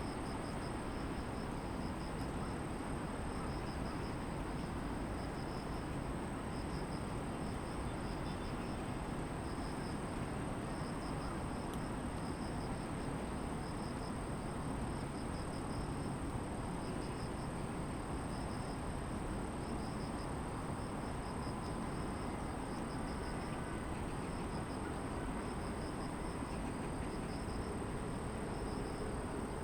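Steady distant city traffic hum from below the hillside, with grass insects calling over it: one high, unbroken trill and another insect's regular pulsing chirp.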